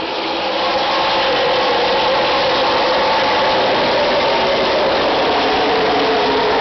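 A field of NASCAR Craftsman Truck Series race trucks with V8 engines accelerating hard past the flag stand on a green-flag restart. The loud, steady engine noise swells about half a second in and holds.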